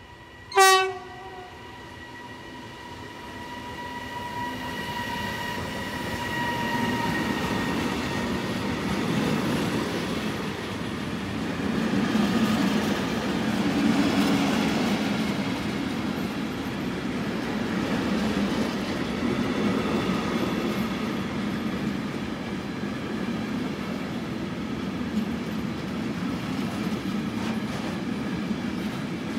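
A short, loud horn blast from an E494 electric locomotive about half a second in. Then the locomotive and its container freight train pass at speed: the rumble and clatter of wheels on the rail joints builds to a peak near the middle and continues as the flat wagons roll by.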